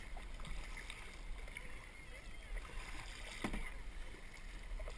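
Canoe paddling on a lake: paddle strokes and water moving against the hull, over a steady low rumble, with a sharper knock about three and a half seconds in.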